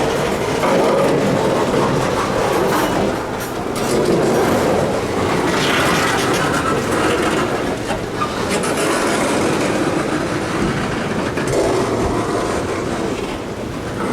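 Canadian Pacific freight train rolling slowly past, its cars' wheels clicking over the rail joints with a steady rumble.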